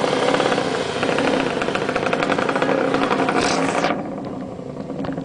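Motorcycle engine running hard at high revs, then the sound drops off abruptly about four seconds in, leaving a quieter, duller engine sound.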